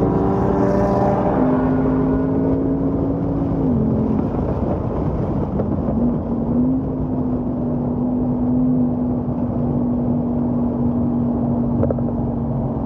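Ford Mustang Mach 1's 5.0 L V8 heard from inside the cabin at speed on a track straight, over road and wind noise. Its pitch drops about four seconds in as it is shifted up into sixth gear, then holds steady.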